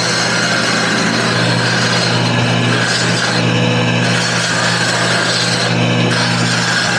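Wood lathe running while a small wooden toy top is shaped on it: a steady motor hum under a continuous scraping hiss of the tool on the spinning wood, which eases off briefly a few times.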